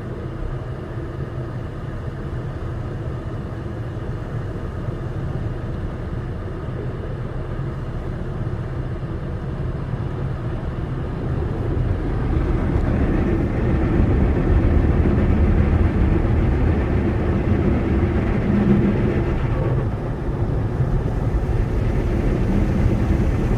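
Tunnel car wash equipment working on the car, heard from inside the cabin: a steady low rumble that grows louder and fuller about halfway through.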